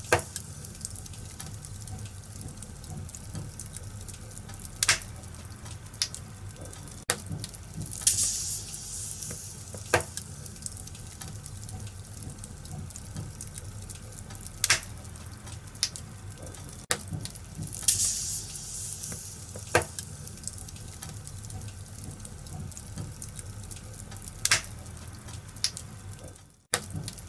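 Wood fire crackling in a fireplace: a steady low rumble of flames with irregular sharp pops from the burning logs and a few short hissing flare-ups. The sound cuts out briefly near the end.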